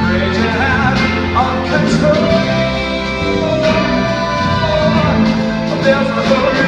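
A band playing an instrumental passage of a song, with a lead melody line that bends and wavers in pitch over the steady backing.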